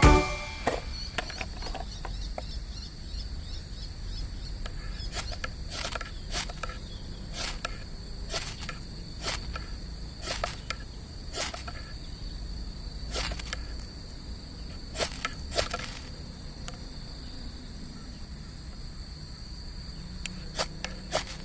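Steady high-pitched chorus of insects, crickets by the sound of it, with scattered sharp clicks and knocks on top.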